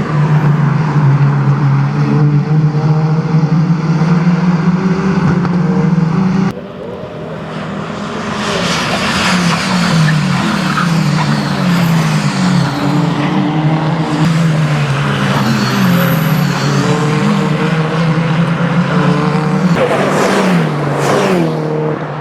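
Renault Clio Cup race cars' engines at racing speed: a steady high engine note, cut off suddenly about six seconds in, then engines climbing and dropping in pitch through repeated gear changes, with a car passing close near the end.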